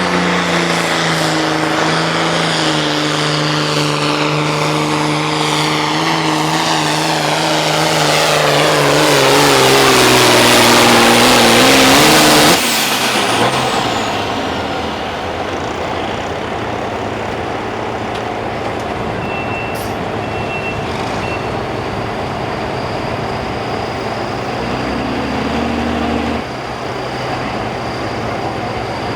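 Super stock pulling tractor's engine running flat out under load as it drags the sled, the note climbing and getting louder before the engine is cut abruptly about twelve seconds in. A lower, steady engine sound carries on after that.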